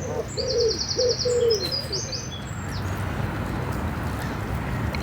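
Birds calling: a few short low calls that drop in pitch, and a small songbird's fast high trill with a few chirps, all within the first two seconds. After that only a steady low background rumble.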